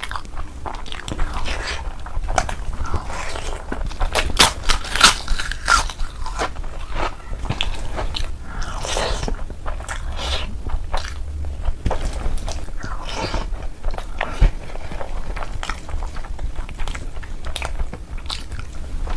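A person eating close to the microphone: crisp crunching bites and chewing, as of papad and raw salad with an egg curry meal, in repeated irregular strikes that are densest a few seconds in.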